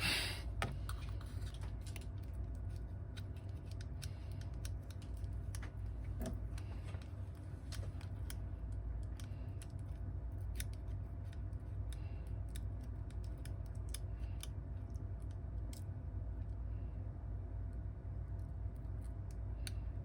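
Scattered light clicks and taps of small hand tools working on an iPhone 8 Plus under repair, over a steady low hum.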